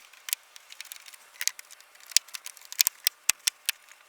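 Irregular sharp plastic clicks and snaps from car interior trim pieces being handled and pressed into place, coming thick and fast in a cluster just under three seconds in.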